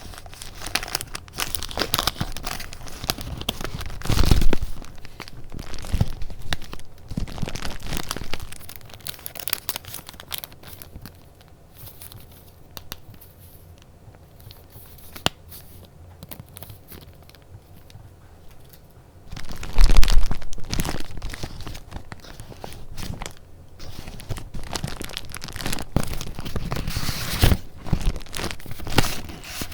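Paper being handled close up: crinkling and rustling sheets, louder with handling knocks about four seconds in and again around twenty seconds, with a quieter stretch between.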